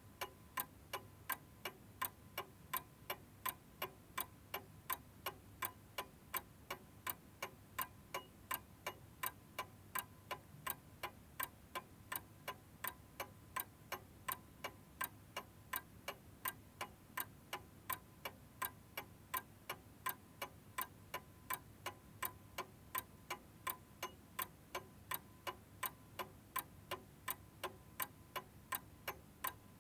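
Clock ticking steadily, a little over two ticks a second, with louder and softer strokes alternating in a tick-tock; no chime sounds.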